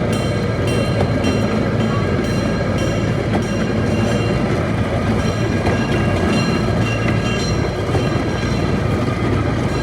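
Mine-ride train cars rolling along their track: a steady rumble with regular clicking from the wheels and a thin high squeal over it.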